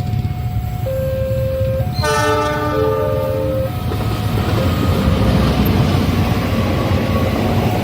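A train horn sounds a multi-note chord for about a second and a half, starting about two seconds in, over a level-crossing alarm that alternates between two notes. The passing train's heavy rumble and wheel noise on the rails then build and continue.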